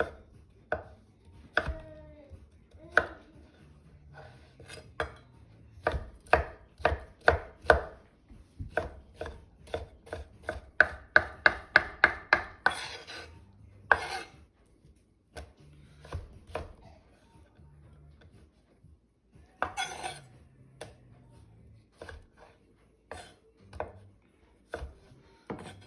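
Kitchen knife dicing salsa ingredients on a cutting board: sharp chopping knocks, at times scattered and at times in a quick run of about five a second, with pauses and a couple of brief scrapes in between.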